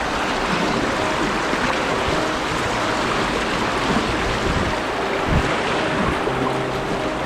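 Rushing river water running through a rapid: a steady, loud rush of whitewater around the boat.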